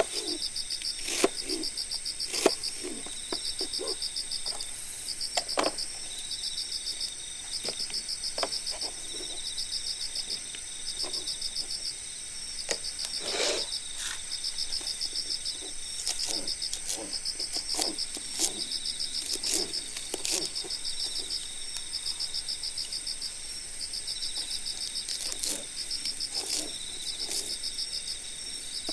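Cricket-like insect chirping in steady, evenly repeating pulsed trains, a sound effect laid over the scene, with a wood campfire crackling and popping beneath it in sharp, irregular snaps.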